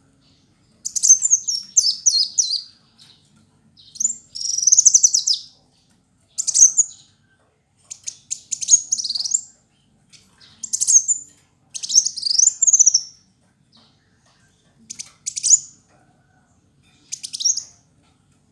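Kolibri wulung sunbird singing a run of short, high, fast twittering phrases of rapid trills and sweeps, about nine bursts separated by brief pauses.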